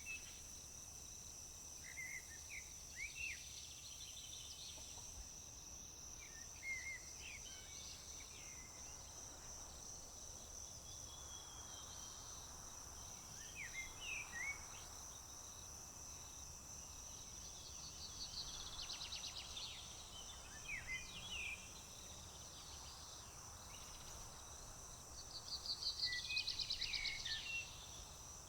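Steady high-pitched drone of crickets, with birds singing short phrases on and off. A rapid trill comes twice, the second one near the end being the loudest sound.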